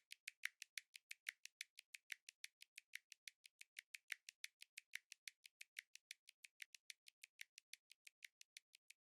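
Faint, steady ticking: short, sharp, high clicks at an even pace of about six a second, like a clock or metronome beat.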